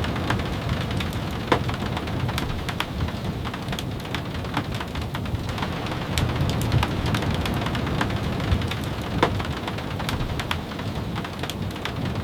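Steady rain falling, with a low rumble underneath and many sharp ticks and pops scattered through it.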